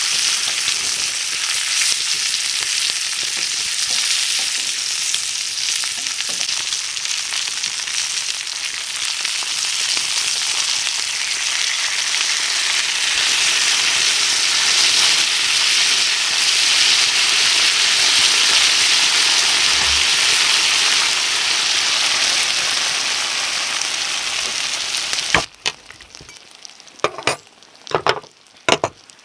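Food sizzling loudly as it fries in a hot pan, a steady hiss that cuts off abruptly near the end. A few sharp clicks or knocks follow.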